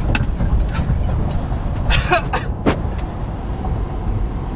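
Steady road and engine noise inside a truck's cab at highway speed, with a few brief sharp sounds over it.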